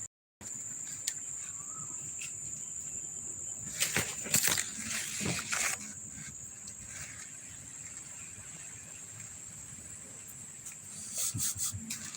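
A steady high-pitched insect chorus drones throughout. Clusters of brief rustling bursts come about four to six seconds in and again near the end.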